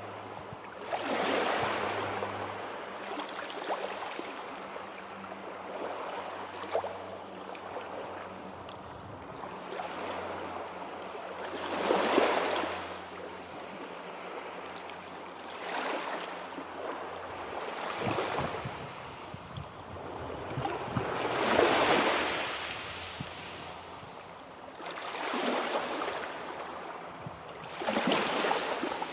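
Sea waves breaking and washing on the shore, swelling and falling back in a slow irregular rhythm every few seconds, with several larger breakers.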